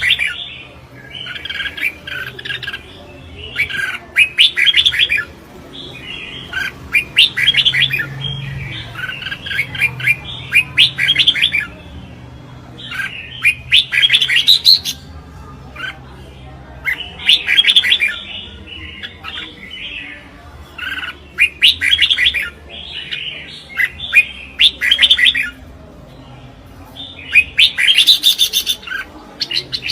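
Red-whiskered bulbul singing in contest: short, bright warbled phrases about a second long, repeated every two to three seconds.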